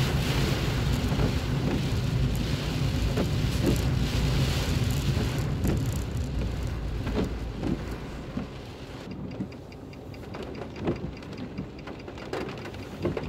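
Heavy rain on a car's roof and windscreen, heard from inside the car along with low road and engine noise. About seven to nine seconds in, the noise drops off, leaving scattered raindrops tapping on the car.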